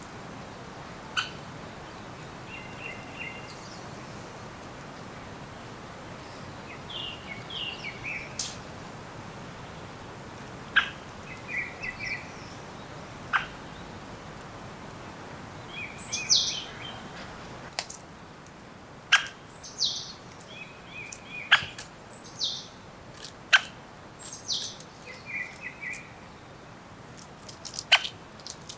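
Songbirds calling: many short chirping phrases and sharp, quickly falling notes, busier in the second half, over a steady low hiss.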